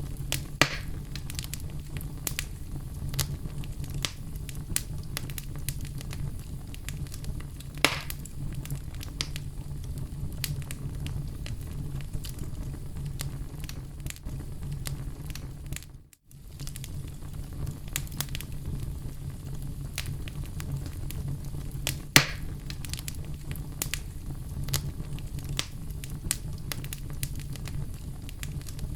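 Oak logs burning in a fireplace: a steady low rumble of flame under constant small crackles, with a few louder pops. The sound drops out briefly about halfway through.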